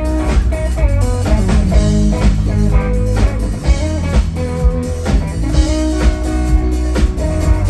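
Live rock band playing: electric guitar with bass and drum kit, in a steady groove.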